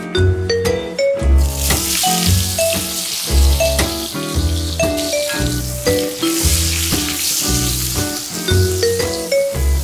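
Eggplant (brinjal) chunks sizzling as they fry in hot oil in a pan, the sizzle starting about a second and a half in, as the pieces go into the oil. Light jazz background music plays throughout.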